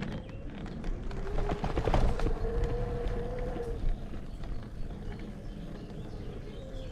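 Electric bike on the move: a steady motor whine that comes in about a second in, drops out before the halfway point and returns near the end, over wind rumble on the microphone, with scattered rattling clicks, busiest about two seconds in.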